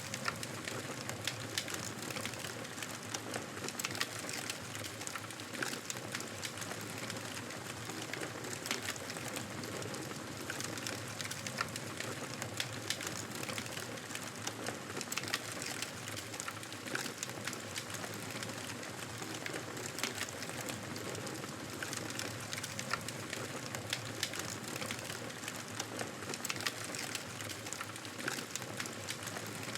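Wood fire burning in a fireplace: a steady rush of flames with frequent small crackles and pops from the burning logs.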